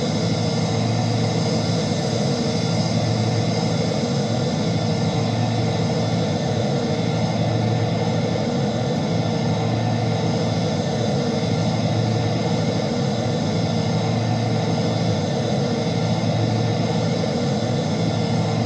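Airbus A330 jet engines running steadily: a constant rumble carrying steady whine tones, with a low throb that swells and fades about every two seconds.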